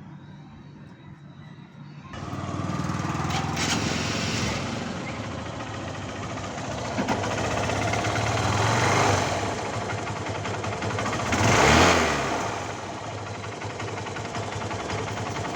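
Honda Unicorn 160 motorcycle's single-cylinder engine running, much louder from about two seconds in, and revved up and back down twice, the second rev the loudest near the end.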